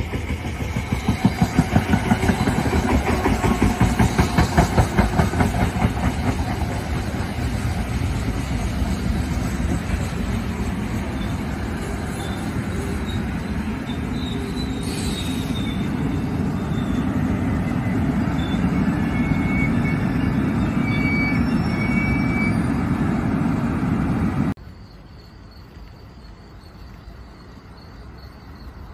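NJ Transit commuter train passing close by: steady rumble with a rapid clatter of wheels over the rails, loudest in the first few seconds. It cuts off abruptly near the end, leaving crickets chirping faintly.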